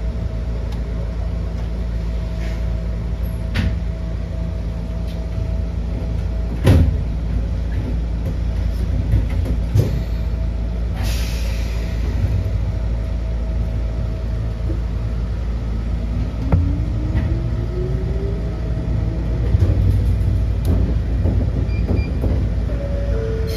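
Ohmi Railway electric train running, a steady low rumble with a constant hum, a few sharp clicks and knocks, and a short hiss about halfway through. A little past two-thirds through, a motor whine rises in pitch.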